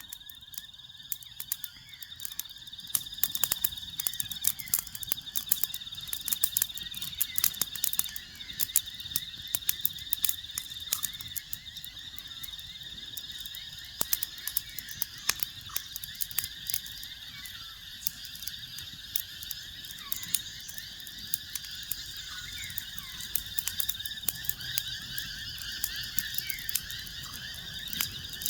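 Frogs calling in chorus, with a steady high trill and many short chirps, over frequent sharp crackles from a fire.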